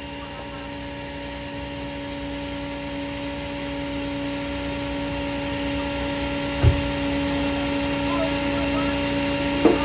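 A vehicle engine idling with a steady, even hum that grows gradually louder. A single short low thump comes about two-thirds of the way through.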